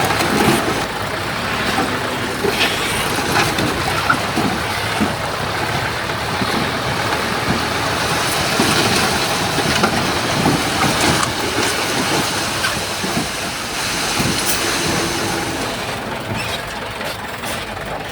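Heavy earthmoving machinery's diesel engine running steadily, with many short metallic clanks and rattles on top.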